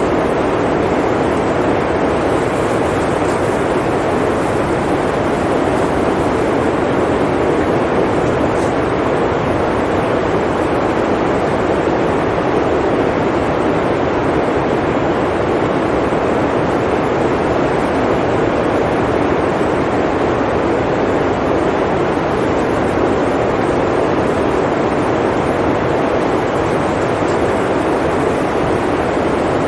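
Blizzard wind blowing steadily: a constant, even rushing noise with no gusts or breaks.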